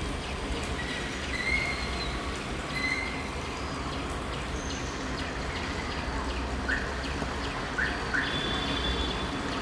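Small birds chirping, with short whistled notes and three quick rising chirps in the second half, over a steady low rumble.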